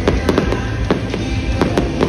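Aerial fireworks bursting overhead: a quick, irregular run of sharp bangs and crackles, with music playing underneath.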